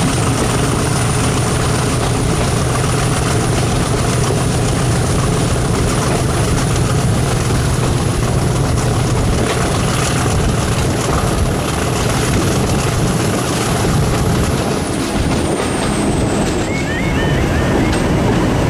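English Electric diesel locomotive running loud and steady, with a thin high whistle over the engine rumble. About fifteen seconds in, the whistle falls in pitch and fades as the low engine hum eases.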